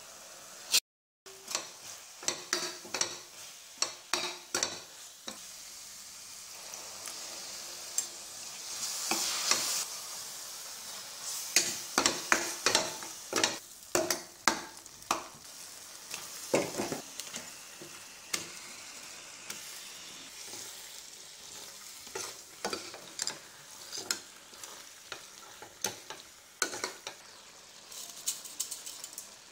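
Masala frying in a stainless steel kadai: a steady sizzle with frequent scrapes and knocks of a metal spatula stirring against the pan. The sizzle swells for a couple of seconds around nine seconds in.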